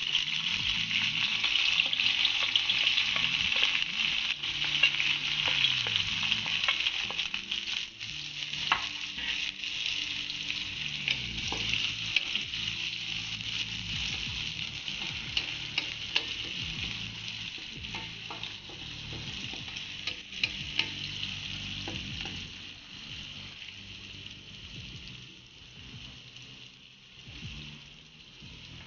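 Chopped onions and dried red chilies sizzling in hot oil in a metal wok, stirred with a wooden spatula that clicks and scrapes against the pan. The sizzle is loudest as they go in and dies down gradually.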